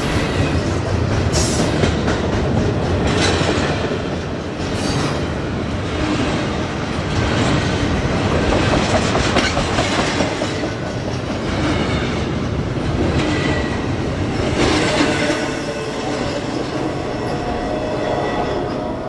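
Double-stack intermodal freight cars rushing past at speed: a steady rumble and rush of steel wheels on rail with repeated clicks over the rail joints. Thin squealing tones come in over the later seconds.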